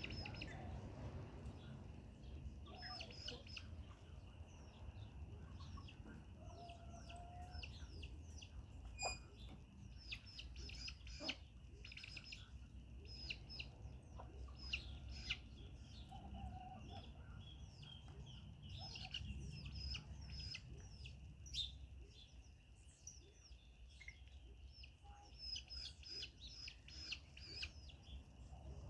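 Chickens heard faintly: many short, high, falling chirps and peeps, several a second, over a low steady rumble.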